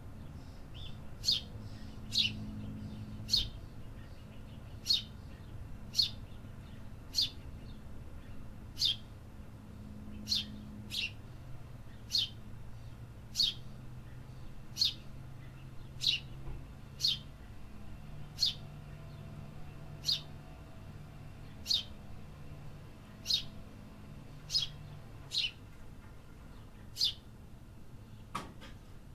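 A small bird giving single sharp chirps, each a quick downward sweep, repeated about once a second over a low steady background rumble of city noise. Near the end one longer call slides lower.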